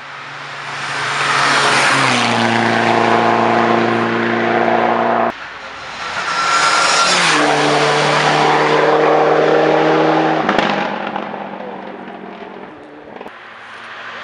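Hillclimb race cars passing one after another at full throttle. Each engine note swells as the car approaches, drops in pitch as it goes by, then fades. The first pass is cut off abruptly a little over 5 s in, and another car starts to build near the end.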